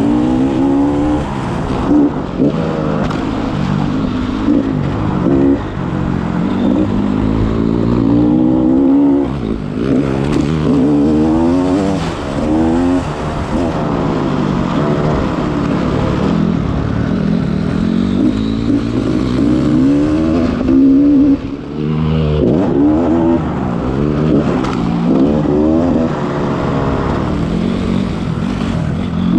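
Dirt bike engine revving hard on a motocross track, its pitch climbing and falling back again and again as the throttle opens and closes through the turns and gear changes.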